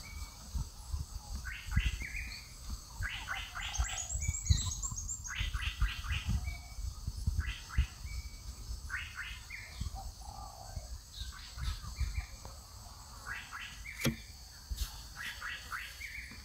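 Wild birds calling: short chattering phrases of quick notes repeated every second or so, with a few brief whistled notes and a short high twitter about four seconds in, over low irregular thumps.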